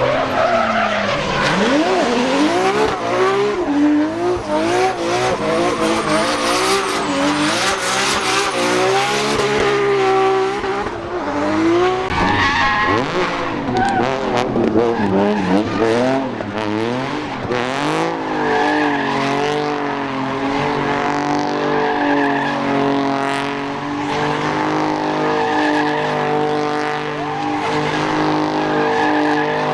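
A supercar's engine revving hard, its pitch swinging up and down, while the car slides and spins with the tyres squealing. About eighteen seconds in, the engine settles to a steadier note.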